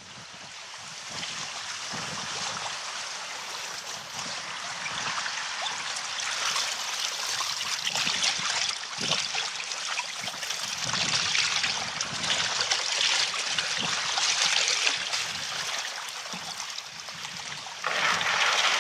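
Steady rushing and hissing of water around a canoe out on a wind-whipped loch. It swells and eases, and gets louder near the end.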